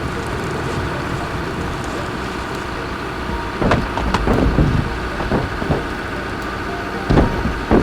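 Heavy truck engine running steadily under load, with a few sharp knocks or thuds about halfway through and again near the end.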